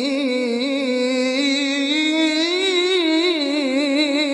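A single voice in melodic Quran recitation holding one long, unbroken note, its pitch wavering and turning in ornaments. This is the drawn-out, embellished close of a recited verse.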